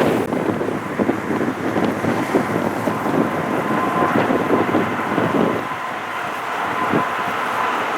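Jet airliner engine noise with wind buffeting the microphone; a steady whine comes in about halfway and holds, and the gusting eases near the end.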